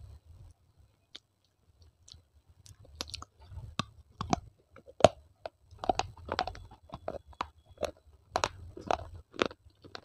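Close-miked mouth crunching and chewing brittle baked clay. A few faint clicks come first, then sharp crackling crunches come thick and fast from about three seconds in.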